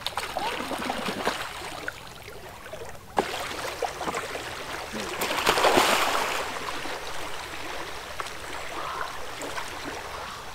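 River water splashing and sloshing as people get in for a swim, with a sharp knock about three seconds in and the loudest splashing a couple of seconds later.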